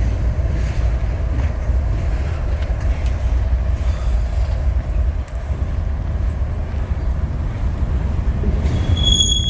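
Slow-moving Union Pacific freight train rolling by with a steady low rumble. Near the end a high, steady squeal comes in for about a second.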